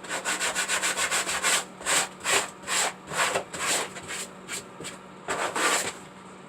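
Sandpaper rubbed back and forth by hand, sanding down and shaping a piece: quick strokes at first, then slower strokes about two a second, stopping near the end.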